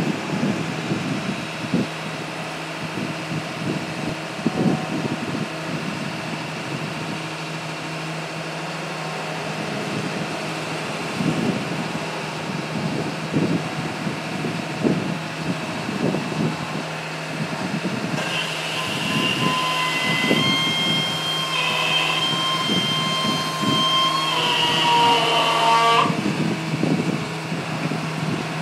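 Drill rig engine running steadily under the rod handler's unloading cycle, with repeated knocks and clunks of the handler moving rod. About two-thirds of the way through, a high whine in two pitches holds for several seconds, steps in pitch, then cuts off suddenly.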